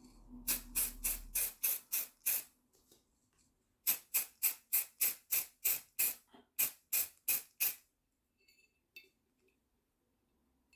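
An aerosol can of chrome spray paint being shaken, its mixing ball rattling in quick, even clacks about four times a second. There are two bouts, with a short pause between them.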